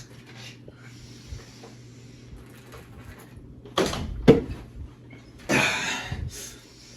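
Household handling noises over a steady low hum: a sharp knock, like a cupboard or door, about four seconds in, then a second of noisy shuffling.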